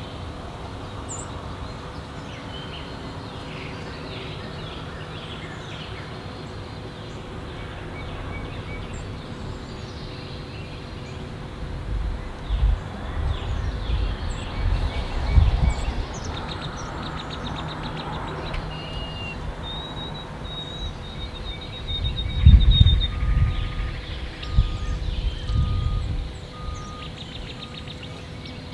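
Songbirds chirping and whistling with short, high calls scattered throughout, over a faint steady hum. Irregular low rumbling rises twice, about twelve seconds in and again about twenty-two seconds in, and is the loudest sound.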